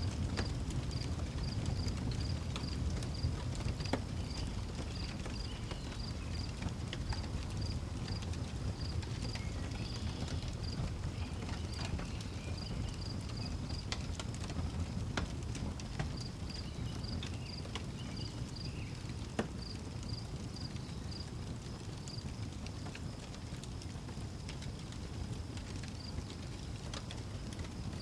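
Wood fire crackling, with sharp pops scattered through it over a low rumble, and crickets chirping in an even, fast rhythm.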